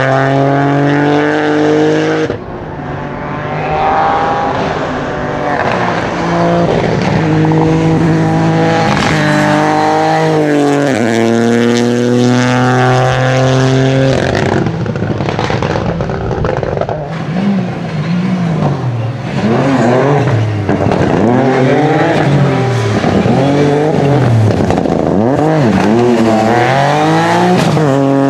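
Rally cars at speed on a special stage, their engines revving hard and changing gear, the note climbing in steps and dropping as they pass. In the second half an engine swings rapidly up and down in pitch as it is lifted off and powered back on through a series of bends.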